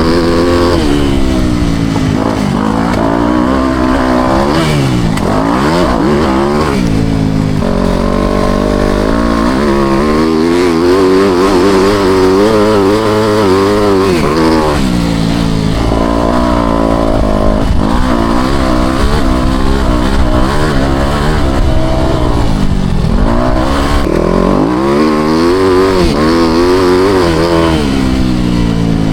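Four-stroke motocross bike engine being ridden hard, its pitch climbing and falling over and over as the throttle opens and shuts, with a few brief drops in between.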